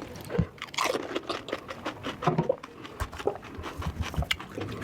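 Close-miked crunching and chewing of food, many sharp crackling bites one after another.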